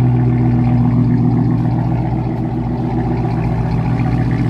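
A car engine running steadily at a constant, low, deep pitch, close by, with no revving up or down.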